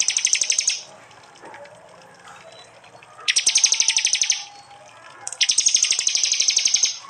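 Prinia (prenjak) giving its rapid 'tembakan' chattering call: three bursts of fast, high repeated notes, each about a second long, the first ending just after the start, the second about three seconds in and the third near the end.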